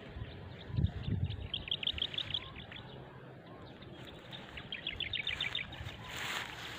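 A small bird calling twice, each call a quick trill of about eight to ten high, evenly spaced notes, the two trills about three seconds apart. Low thumps about a second in and a short hiss near the end.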